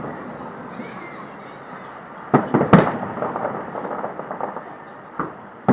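Fireworks going off: a quick cluster of three loud bangs about two and a half seconds in, followed by a spell of crackling, and another bang near the end.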